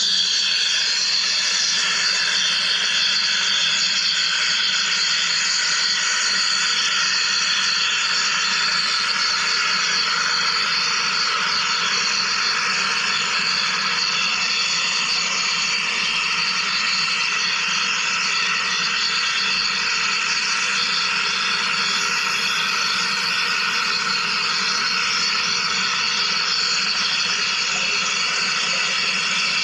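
Wire EDM machine cutting, a steady high hiss of sparking and flushing water that comes on suddenly and holds unchanged.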